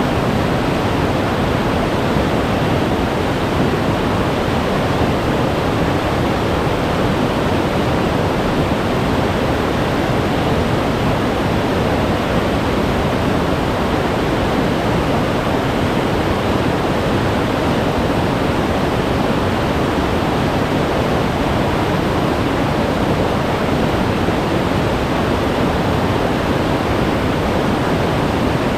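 Glacier-fed mountain stream rushing steadily, its meltwater a constant full-bodied roar of white water.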